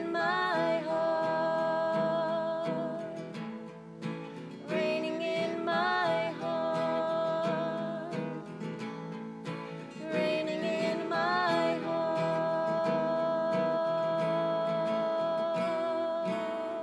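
Acoustic guitar strumming under a wordless sung melody of three long phrases. Each note scoops up into a held tone with vibrato, and the last note is held for several seconds.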